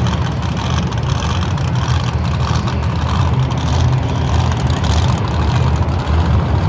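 Monster truck engine running with a deep, steady rumble as the truck drives out of the pit area.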